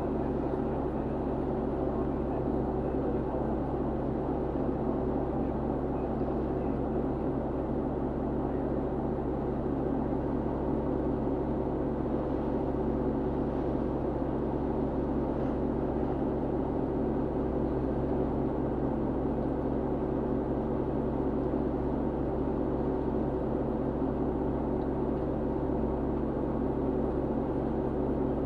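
Fishing boat's engine running steadily with an even, unchanging drone.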